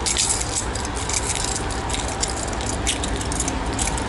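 Container goods train rolling past: a steady rumble and rattle of the wagons, with irregular sharp clicks several times a second from wheels over rail joints.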